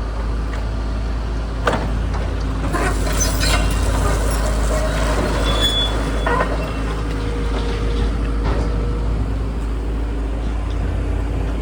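Volvo EC140BLC crawler excavator running with a steady low engine rumble, with several sharp metallic knocks and clanks at intervals.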